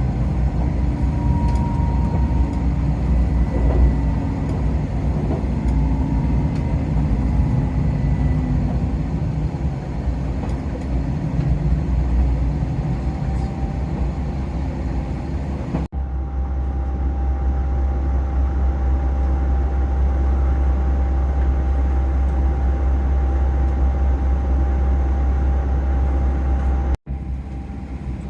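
2000 series tilting diesel train running, a steady low rumble with a faint steady whine over it. The sound changes abruptly about halfway, after which a deep hum is stronger, and it drops out for a moment near the end.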